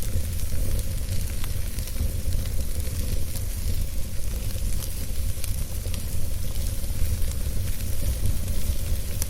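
Wood fire in a fireplace crackling, with scattered small pops and hiss over a steady low rumble.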